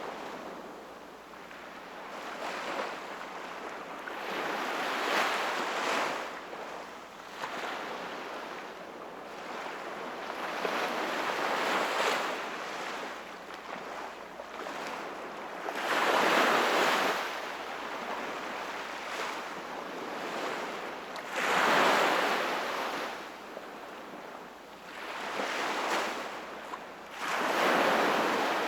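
Sea waves breaking and washing onto the shore, the surf swelling and falling away every few seconds, with the biggest waves about halfway through and twice more near the end.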